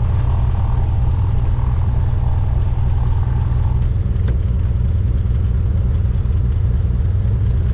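Cessna 172's piston engine and propeller running steadily, a constant low drone with no change in power.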